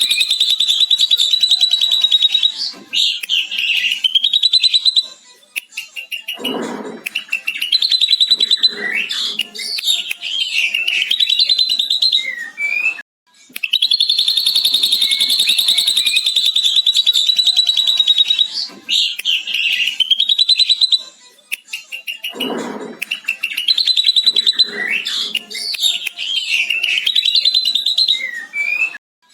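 Ashy drongo singing a loud, varied song packed with mimicked lovebird calls. It holds long, steady, high chattering trills (the lovebird's 'ngekek panjang'), broken up by quick twittering phrases and a brief low, harsh note. The same passage repeats about halfway through, as in a looped tutoring recording.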